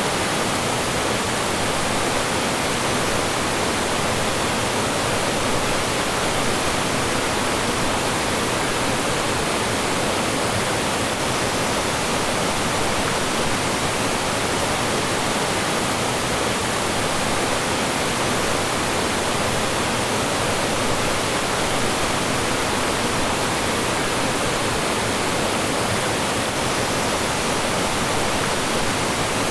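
Mountain stream rushing and splashing over rocks and small falls, a steady, unbroken wash of water noise.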